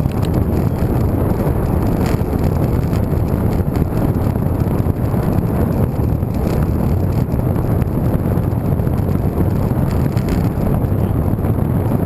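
Steady, loud wind rumble buffeting the microphone of a camera carried along on a moving road bike.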